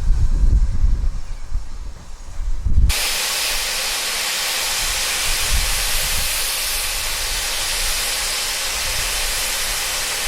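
Heritage railway locomotive venting steam: a loud, steady hiss cuts in suddenly about three seconds in and keeps going. Before it there is a low, irregular rumble.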